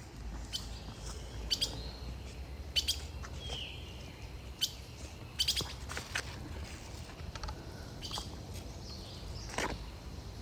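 Wild birds chirping in a forest: short, high calls scattered every second or two.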